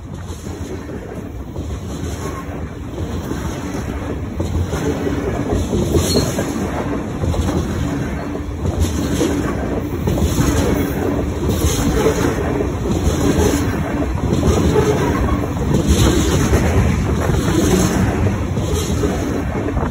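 Freight train tank cars rolling past close by: a steady rumble of steel wheels on rail with a clack about once a second as the wheels cross the rail joints, growing louder over the first half.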